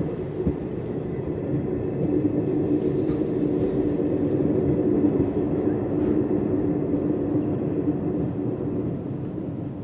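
Passenger train running, a steady rumble and hum that swells toward the middle and eases off near the end.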